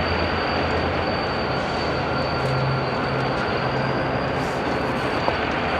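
Train moving in a rail yard: a steady rolling rumble with a low diesel engine hum and a thin, steady high whine over it.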